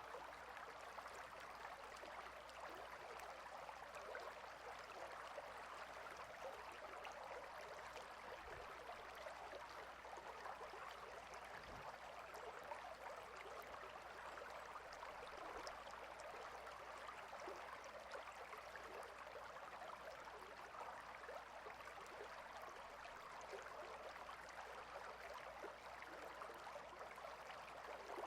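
Stream flowing: a steady, faint rush of running water with fine splashing.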